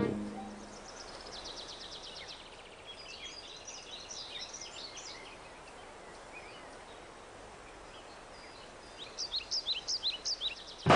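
Small birds chirping and trilling over a steady background hiss, with a louder run of about eight quick, sharp notes near the end.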